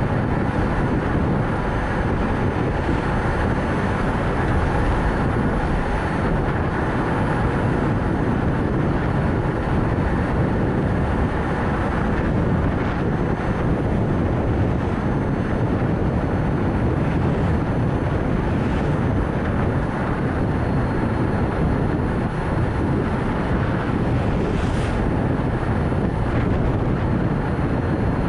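Steady road and tyre noise with wind rumble from a Nissan Note e-POWER driving along, picked up by a camera mounted low on the car. There is a faint short click about 25 seconds in.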